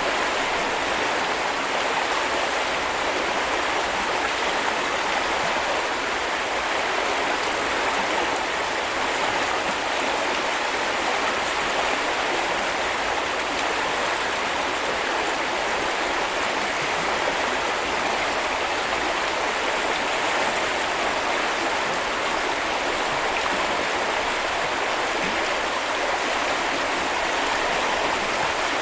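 Small river or brook flowing steadily over stones, a continuous even rush of running water with no breaks.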